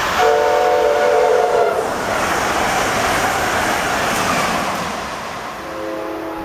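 Amtrak electric passenger train passing at speed, sounding its multi-note air horn for about a second and a half at the start, then the rushing and wheel clatter of the cars going by. A second horn blast near the end is lower in pitch.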